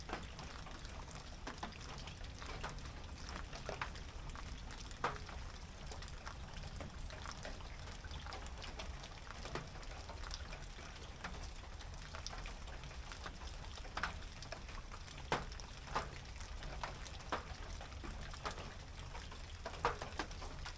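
Rain falling on a tin roof: a steady patter with single heavier drops striking sharply at irregular moments.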